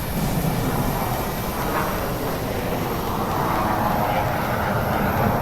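Jet fighter roar as a USAF Thunderbirds F-16 flies past, a steady rushing noise that grows gradually louder.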